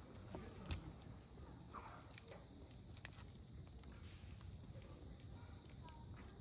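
Campfire of burning firewood crackling faintly, with a few sharp pops, over the steady pulsing chirps of insects.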